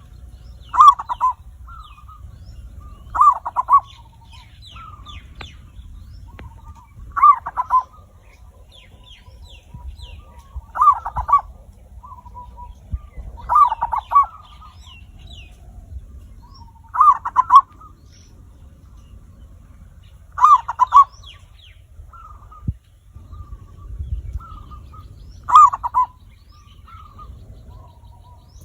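Male zebra dove (perkutut) singing its rolling, trilled coo. There are eight loud phrases a few seconds apart, with softer coos between them and faint high chirps in the background.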